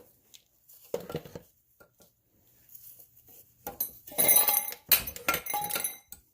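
Metal tools and parts clinking and clattering together: a knock about a second in, then a busy run of clinks with short metallic rings over the last couple of seconds.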